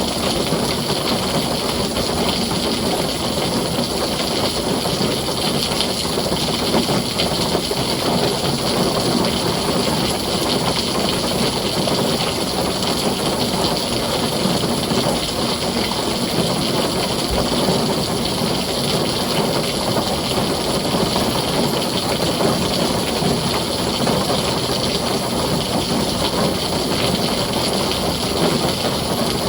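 Heavy rain falling steadily on a tin roof, an even hiss with no thunder standing out.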